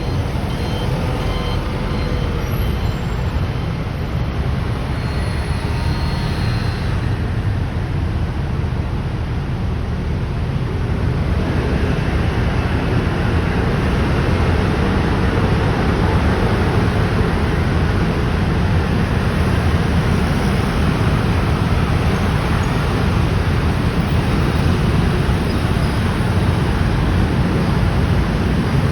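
A dense stream of motor scooters and motorbikes passing together, a steady din of many small engines that grows louder and fuller about a third of the way in.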